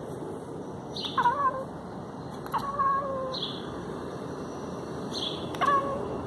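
A pet animal giving three short calls, each falling in pitch, about a second in, near the middle and near the end, over a steady background hiss.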